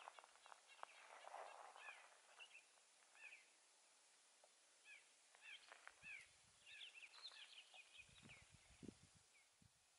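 Faint bird chirps: a small songbird repeating short, falling notes in several clusters. A soft rush of wind at the start and low rumbles near the end.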